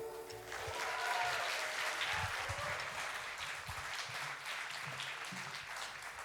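The band's last chord dies away, then an audience applauds, the applause thinning out near the end.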